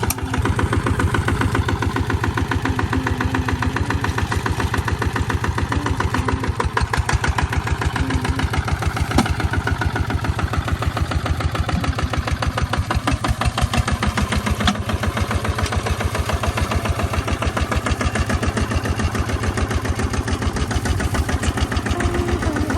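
Tractor engine running steadily with a fast, even beat of firing pulses and a few louder knocks along the way.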